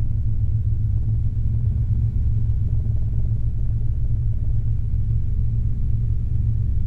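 Robinson R22 helicopter's engine and rotor heard inside the cabin: a steady low drone.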